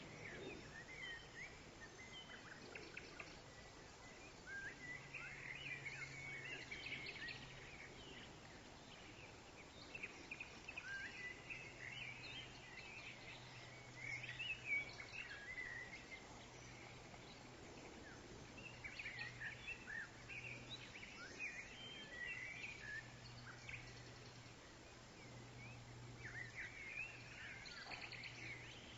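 Several woodland birds chirping and twittering in short, overlapping phrases, over a faint steady low hum.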